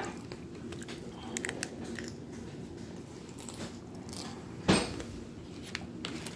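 A person chewing a mouthful of food, with small scattered clicks, over a steady low hum. There is one louder sharp knock about three-quarters of the way through.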